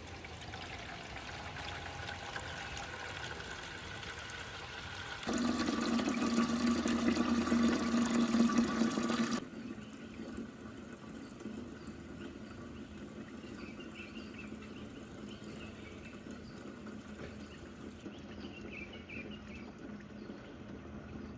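Water being poured or running, with a louder stretch of about four seconds in the middle that starts and stops abruptly.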